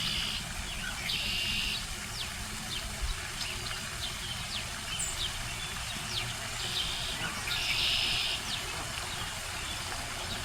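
Canada goose goslings peeping: many short, high chirps scattered throughout, over a steady low background rumble.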